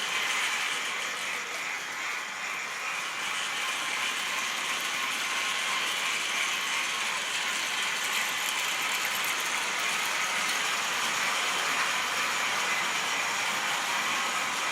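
Model train running on its track: a steady mechanical whirring rattle from the locomotive's motor and gearing and the wheels of the rolling stock, a little quieter for the first couple of seconds and then even.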